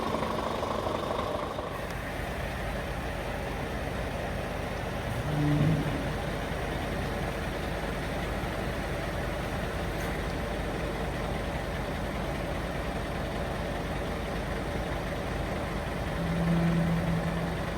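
Scania R490 truck's 13-litre inline-six diesel idling steadily. Two brief, louder humming tones come in, one about five seconds in and a longer one near the end.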